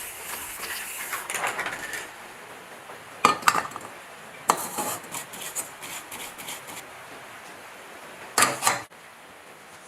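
A hiss, then several bursts of sharp metal clinks and clanks, like metal parts and tools being handled and knocked together, about three seconds into the sound, again a second later and near the end.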